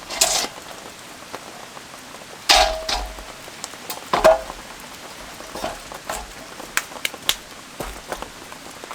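Metal cookware clanking against metal three times, each knock ringing briefly, with smaller taps between, over steady rain falling.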